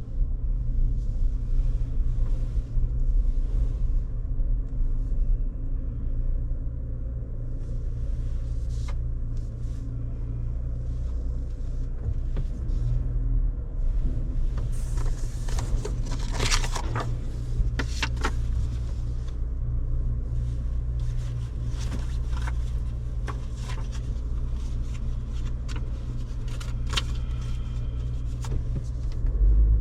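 Steady low rumble of a moving vehicle heard from inside, with scattered sharp clicks and knocks in the second half.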